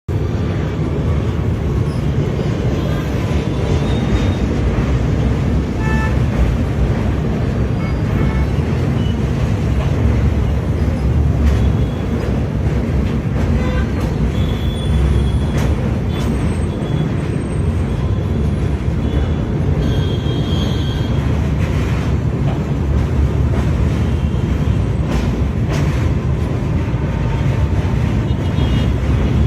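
Train running along the rails: a steady, loud rumble, with a few brief high squeaks about halfway through.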